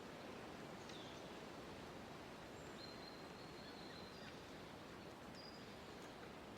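Faint forest ambience: a steady soft hiss of background noise with a few thin, high bird whistles. There is a short falling whistle about a second in, a longer level one between about three and four seconds, and a brief one just past five seconds.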